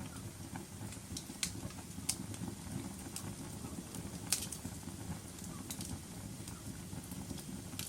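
Wood fire crackling in a fireplace: irregular sharp pops and snaps over a low, steady rumble of the flames, the loudest pop a little past four seconds in.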